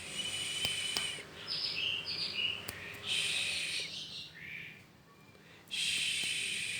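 Caged songbird singing in loud, harsh rasping bursts, each lasting about a second, with short notes in between. This is its full 'gacor' song, used as a bait recording to provoke other birds into singing.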